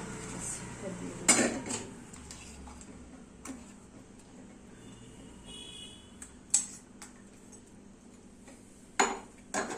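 Kitchen utensils clinking and knocking against a bowl, a few separate sharp clinks with the loudest about a second in, as the onion-ginger-garlic paste goes in with the pakora batter.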